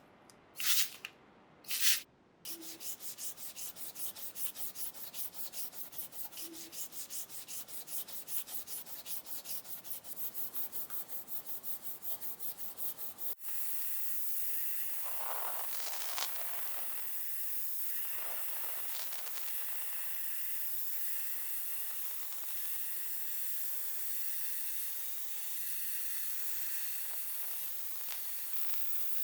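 Hand sanding of a model truck part: even back-and-forth sandpaper strokes, about four a second, after a few short scrapes at the start. About thirteen seconds in it cuts off abruptly to a steady hiss.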